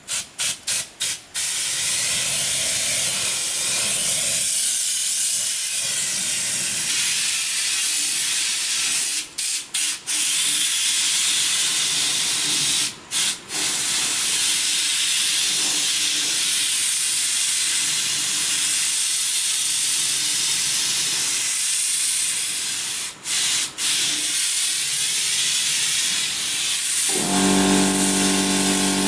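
A loud, steady hiss, broken off sharply for a moment a few times. Near the end a motor starts with a steady, pitched hum under the hiss.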